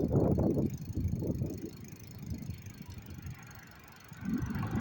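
Riding noise from a moving bicycle, heard through the microphone of a phone mounted on the bike: irregular low rumbling gusts of wind on the microphone, strongest in the first second or so and again near the end.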